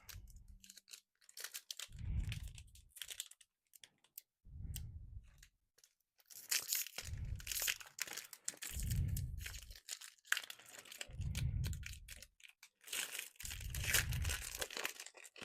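Foil booster-pack wrapper being torn open and crinkled, in repeated bursts of rustling about every two seconds.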